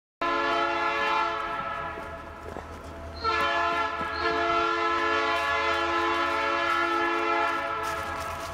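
Locomotive air horn sounding over a passing train's low rumble: a short blast of about a second and a half, then after a pause a longer blast of about four and a half seconds.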